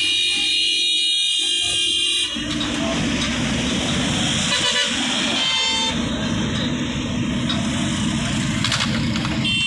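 Road traffic with vehicle horns sounding over a steady rumble: a long held horn blast that stops about two seconds in, a shorter horn about five seconds in, and another just before the end.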